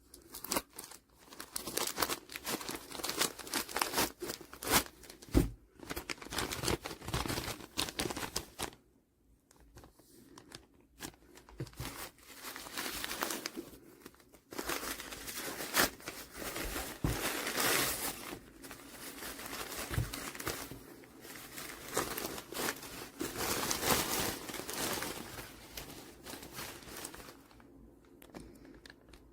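Crinkling and rustling of material being handled and crumpled, in irregular spells with short pauses, dying away near the end.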